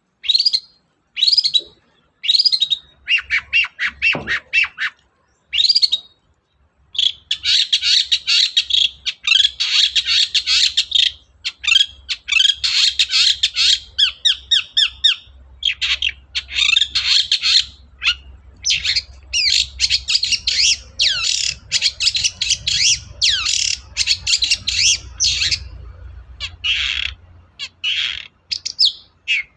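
Long-tailed shrike (cendet) singing: a few short separate calls at first, then from about seven seconds in a fast, unbroken run of chattering, scratchy phrases.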